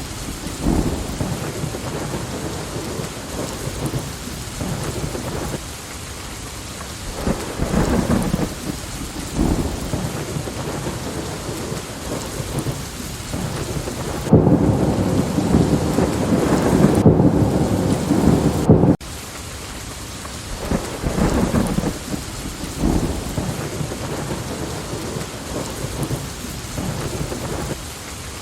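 Steady heavy rain hissing, with low rolls of thunder coming and going every few seconds. About halfway through, a louder, deeper thunder rumble builds for several seconds and then cuts off suddenly.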